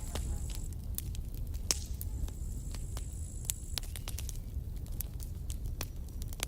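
Campfire crackling: irregular sharp pops and snaps over a steady low rumble, with a faint high whistle near the start and again midway.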